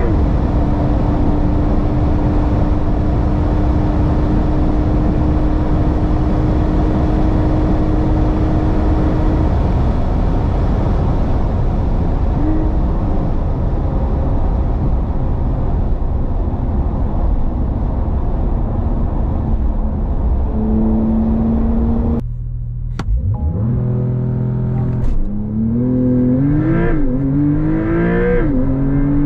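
Porsche 911 Targa 4 GTS's twin-turbo flat-six driving at high speed, with heavy wind and road noise and a steady engine note. Near the end the engine eases off briefly, then pulls hard again, its pitch rising and dropping back through quick upshifts.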